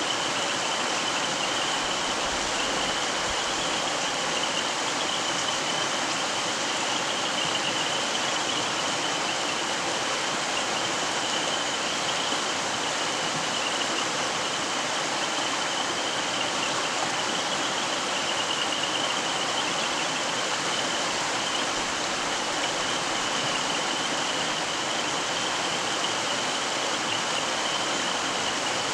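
Mountain stream flowing: a steady, even rush of running water, with no wind. A faint, steady high-pitched note runs underneath.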